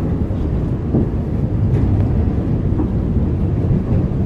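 Alishan Forest Railway narrow-gauge train on the move, a loud steady low rumble of the running train.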